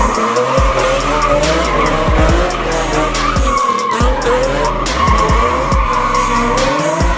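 Car tyres squealing in a long, wavering screech, as in a burnout or drift, over background music with a steady beat.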